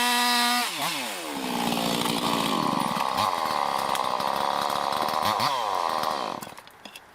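Two-stroke chainsaw screaming at full throttle, then dropping in pitch as the chain bites into the pine trunk. It runs under load, cutting, before falling away about six seconds in.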